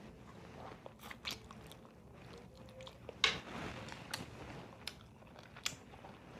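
A person chewing and crunching food close to the microphone, with a few sharp clicks scattered through, the loudest about three seconds in.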